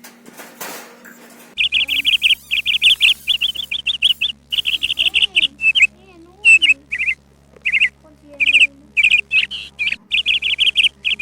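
Pet cockatiels chirping: rapid, high-pitched calls in quick runs with short pauses, starting about a second and a half in.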